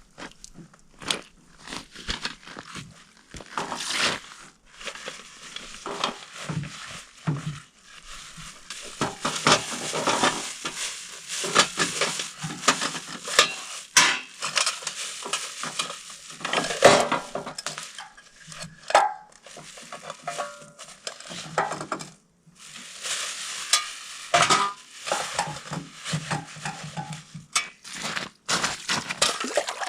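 Cooking utensils and a pot being handled while fish soup is prepared: irregular clinks, scrapes and clicks in busy stretches with short pauses.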